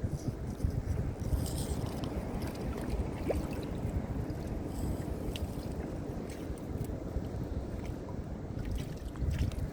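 Wind rumbling on the microphone and water moving against a kayak hull, an uneven low rumble with a few faint clicks.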